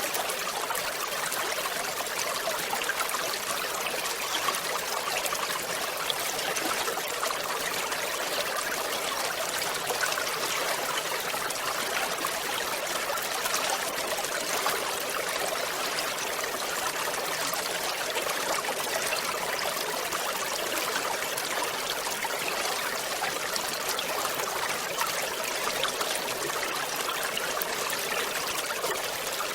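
River water cascading over a small waterfall: a steady, even splashing rush, mostly high and bright, with little deep rumble.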